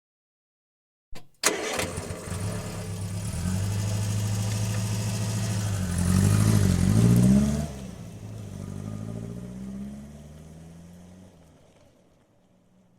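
Ford Fiesta engine starting: a short click, then the engine catches and settles into a steady idle. It is revved up and down a couple of times around six to seven seconds in, drops back to idle and fades away toward the end.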